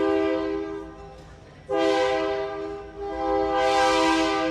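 Diesel locomotive's multi-chime air horn sounding a chord: one blast ends about a second in, and a longer blast starts under a second later and holds.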